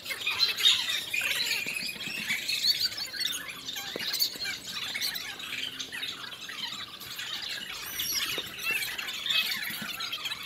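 A flock of birds calling, many short high calls overlapping one another.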